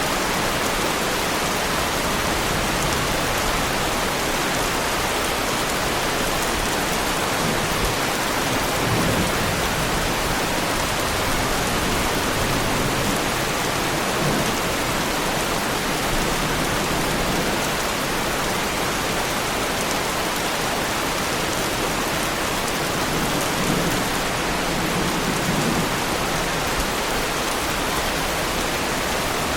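Heavy rain falling steadily on a car's bodywork, a dense, even hiss with faint low rumbles about a third of the way in and again near the end.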